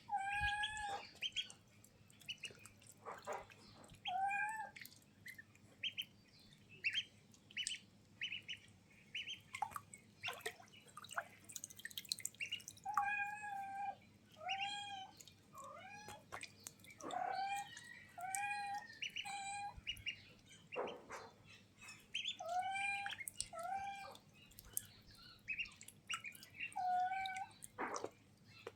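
Ducks calling: short pitched calls repeated throughout, often in quick pairs or runs, with small splashes and drips of water from a swimming duck.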